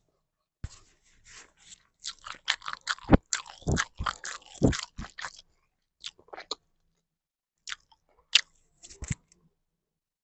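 Close-up eating sounds: biting and chewing with crunchy crackles, coming thick and irregular in the first half, then a few scattered bites near the end.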